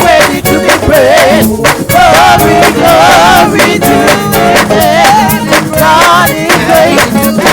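Live gospel praise band playing: singers with a wavering vibrato over a drum kit, cymbals and bass, with a steady driving beat.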